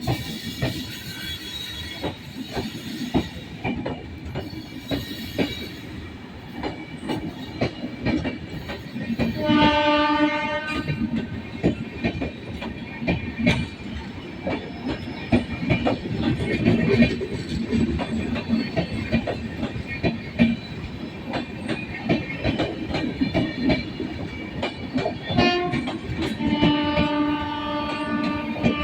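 Moving passenger train with wheels clattering steadily over rail joints, and the WAP-7 electric locomotive's horn sounding three times: a short blast about ten seconds in, a quick toot later, then a long blast near the end.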